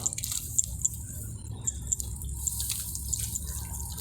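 Water dripping and splashing in irregular small drops, over a steady low hum.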